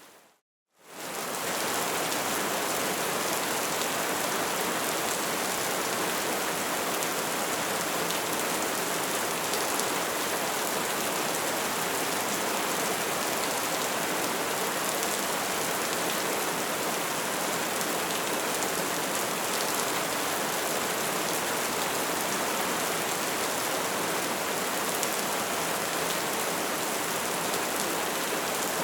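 Bonfire crackling and hissing steadily, with scattered small pops. Near the start it drops out to silence for under a second, then fades quickly back in.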